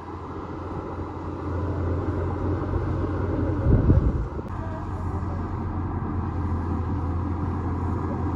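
Bulldozer's diesel engine running steadily under work, growing louder over the first couple of seconds. A brief louder rumble swells a little before halfway, then it settles back to a steady drone.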